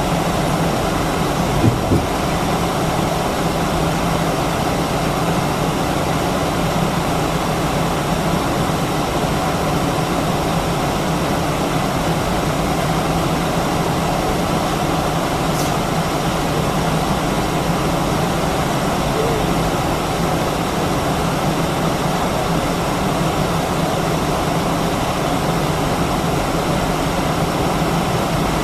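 Steady cabin noise inside an Airbus A319-132 with its IAE V2500 engines running at low power, a constant low hum under an even rush of air. A brief knock sounds about two seconds in.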